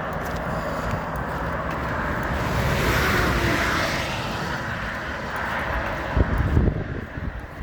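Highway traffic passing close by, with one vehicle's tyre and engine noise swelling to its loudest about three seconds in and then fading. Near the end, gusts of wind buffet the microphone in low thumps.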